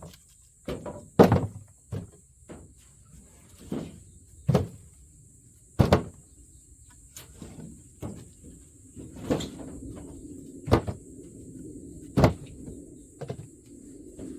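Dry firewood knocking and cracking at irregular intervals as sticks and branches are gathered and handled, with the loudest knocks about six and twelve seconds in. A steady low rushing noise joins about nine seconds in.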